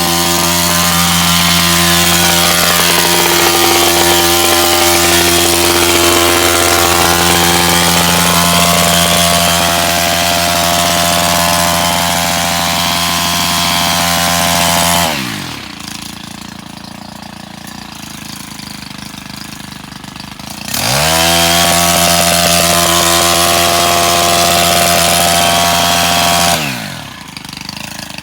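A power cutting tool's motor starts with a rising whine and runs steadily for about fifteen seconds, then winds down. It starts again a few seconds later, runs for about five seconds and winds down again.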